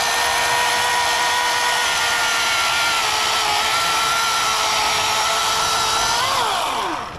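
Electric chainsaw running at a steady high whine, then winding down in pitch and stopping about six and a half seconds in as the trigger is released.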